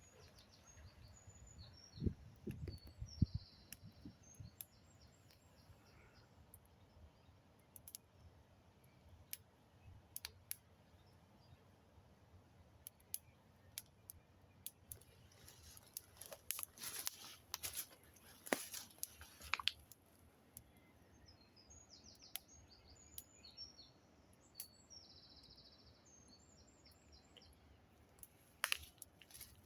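Wood crackling in scattered sharp pops and snaps, denser for a few seconds past the middle, with a few low thumps about two seconds in. Birds chirp faintly in two short spells.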